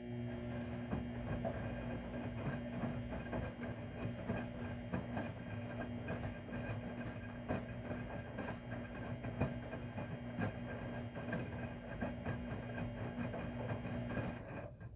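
Haier front-loading washing machine's drum turning with a load of towels in the wash: a steady motor hum under a dense, irregular clatter of clicks and knocks. It stops abruptly near the end, as the drum pauses between turns.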